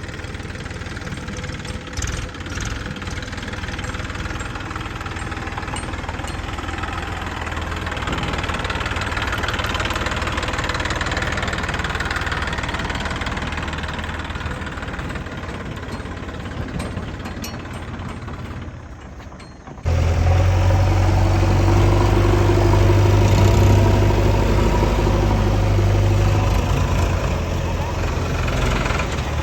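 Diesel engines of heavy machinery running at a work site. About two-thirds of the way through, the sound cuts sharply to a louder, deeper engine.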